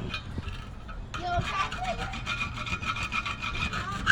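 Rusty steel wheel rim being scraped by hand at the bead seat to clear rust that is causing an air leak: quick repeated scraping strokes with a metallic ring. The strokes ease off briefly near the start and pick up again about a second in.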